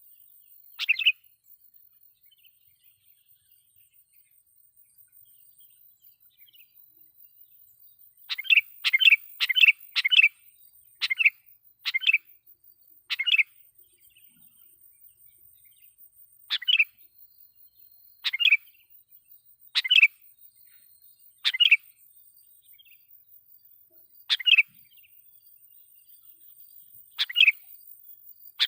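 Sooty-headed bulbul (kutilang) calling in short, loud chirping notes: one about a second in, a pause of several seconds, then a quick run of about five notes, followed by single notes every second or two.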